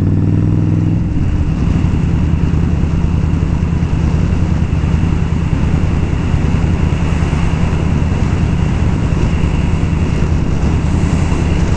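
Indian Scout's V-twin engine running steadily at cruising speed, with wind rushing over the helmet microphone.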